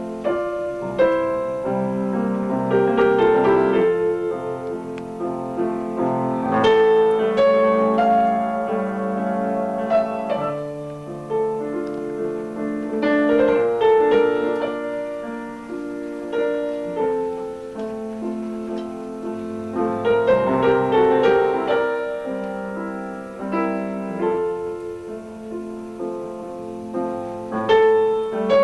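Solo piano playing a classical piece, with chords and melody notes in phrases that swell and fall back.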